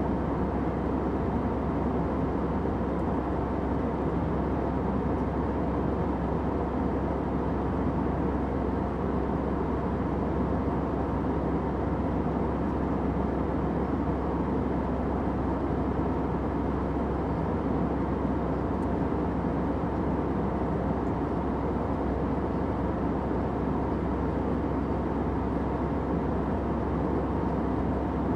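Steady airplane cabin noise: an even, unchanging drone heavy in the low and middle range and muffled in the highs, with faint steady hums running through it.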